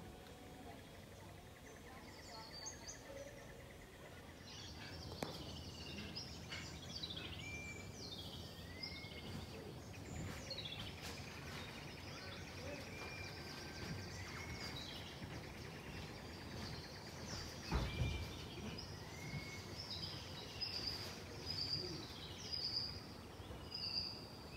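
Several wild birds calling in forest: many short chirps, falling notes and little rising whistles, busier from about five seconds in. A brief dull thump about two-thirds of the way through.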